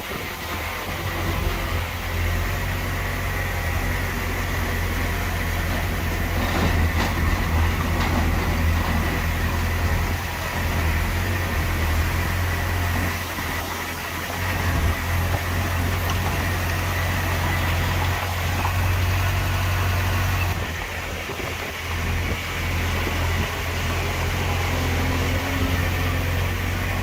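Heavy earthmoving machinery's diesel engine running, a steady low drone that eases off briefly a few times.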